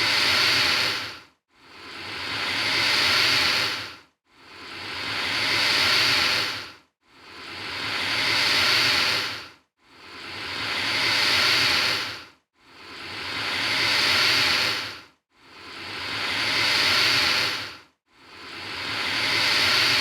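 Alligator hissing: a breathy hiss that swells up and fades away, repeated about every three seconds with a short silent gap between, seven times over.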